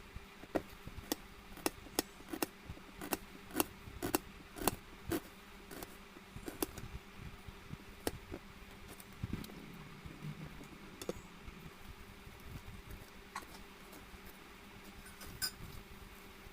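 Kitchen utensils clicking and tapping during food preparation: sharp irregular taps, about two a second at first, then sparser, over a faint steady hum.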